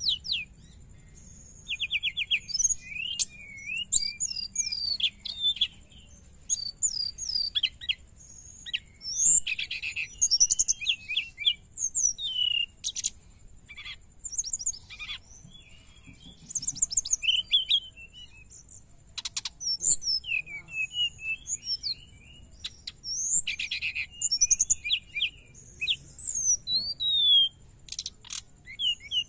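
Brown-chested jungle flycatcher singing busily: quick bursts of high chirps, twitters and fast trills, phrase after phrase with short pauses between.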